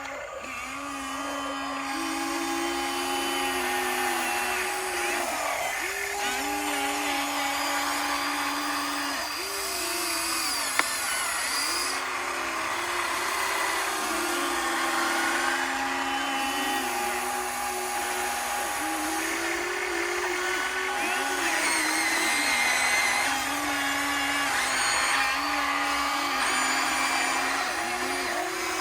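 Motors of radio-controlled model excavators whining steadily, the pitch stepping up and down every second or two as the machines' functions are worked. One sharp click about eleven seconds in.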